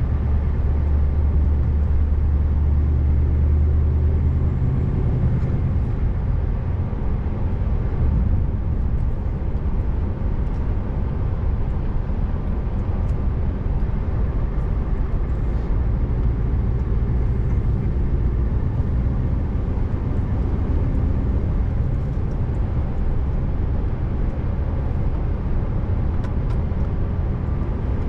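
Scania R590 V8 truck engine running steadily under way, a low droning note over an even rush of tyre and road noise; about four to five seconds in, the engine note changes and the strong low hum eases.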